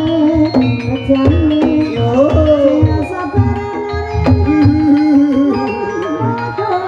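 Live ebeg gamelan accompaniment: hand drums thump in a steady beat under struck metal gamelan notes, and a held melodic line slides up and back down about two seconds in.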